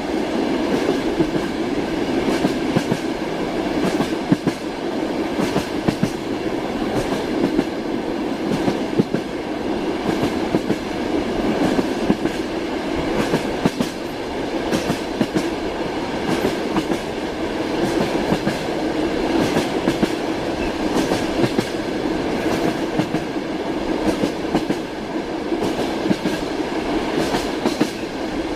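Train wheels running on rails: a steady rumble with repeated clickety-clack knocks from the wheels passing over rail joints.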